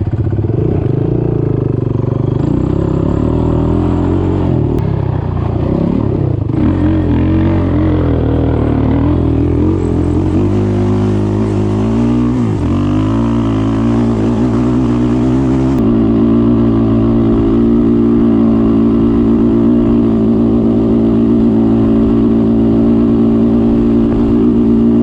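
Off-road vehicle engine running continuously while riding. The pitch rises and falls with the throttle for the first half, then holds steady from about two-thirds of the way in.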